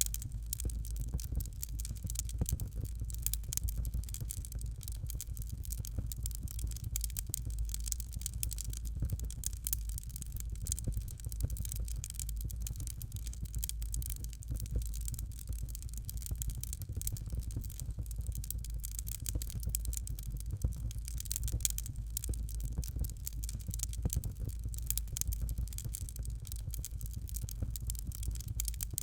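Fire crackling steadily: dense fast small pops and snaps over a constant low rumble of flame.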